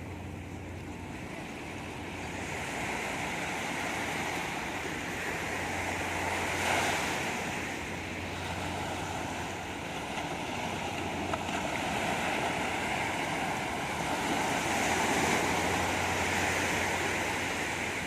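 Sea waves breaking and washing up a beach, the surf swelling twice, with some wind.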